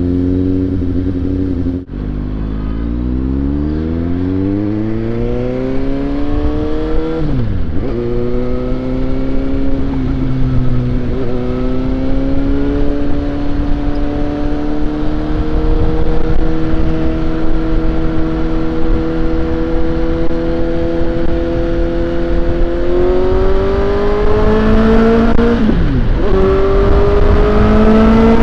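Suzuki GSX-S750 inline-four engine accelerating hard through the gears under a rider. Its pitch climbs and drops back at each upshift, a few times early on. It holds a nearly steady pitch through the middle, then climbs and shifts up again near the end.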